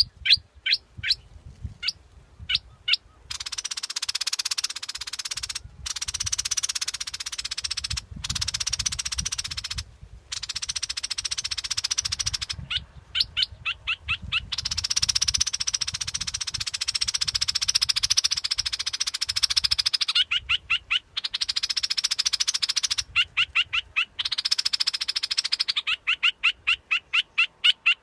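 Recorded bulbul ('prot dok taeng') calls played as a lure call: quick runs of short sharp chirps, about six a second, alternating with long buzzy trills that last a few seconds each and stop abruptly.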